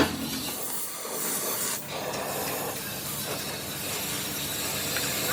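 A steady hiss, opening with a sharp knock and ending with a small click.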